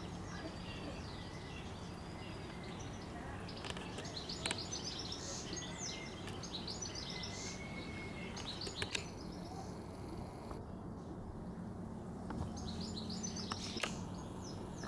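Garden birds singing: many short chirps and whistled phrases, some sharply rising, over a steady low background noise.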